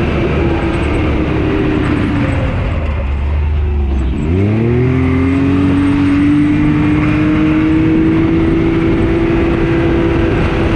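Can-Am Maverick X3 side-by-side's engine running under way. Its note sags until about four seconds in, then climbs quickly as it accelerates and holds a steady, slowly rising pitch.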